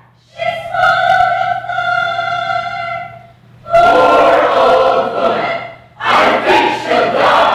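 A group of voices performing in unison: a long held sung note, then two loud, fuller ensemble phrases.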